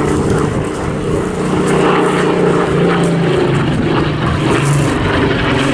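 Spitfire PR XIX's Rolls-Royce Griffon V12 piston engine running steadily in flight, a continuous propeller drone with several even engine tones.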